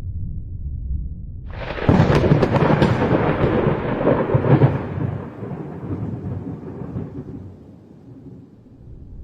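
A thunderclap: a low rumble breaks about a second and a half in into a sudden sharp, crackling crash, which then rolls on as rumbling thunder and fades away over the next several seconds.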